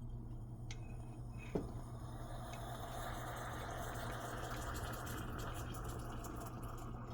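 Freshly brewed espresso poured from a stovetop espresso maker into a cup: a steady trickling stream that fills out about three seconds in, with a small click of metal on the cup about a second and a half in.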